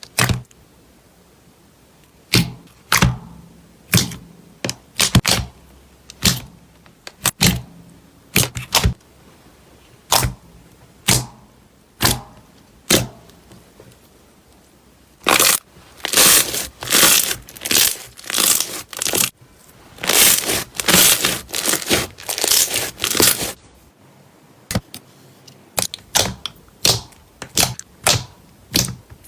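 Slime being pressed and squeezed by hand, giving sharp crackles and pops. At first they come about once a second, then a dense run of crackling follows about halfway through, before sparser pops return near the end.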